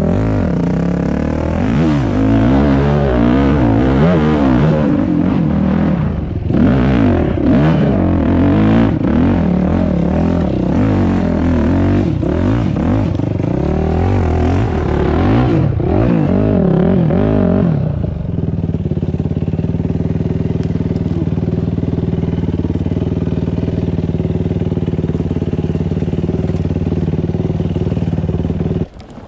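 Dirt bike engine running under changing throttle, its note rising and falling repeatedly. From about two-thirds of the way in, it settles into a steady, even note.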